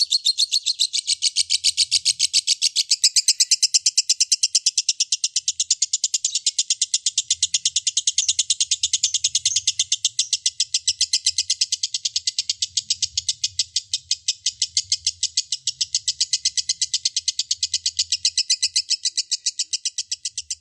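Lovebird singing a long 'ngekek': an unbroken, rapid chattering trill of sharp, high-pitched notes repeated several times a second.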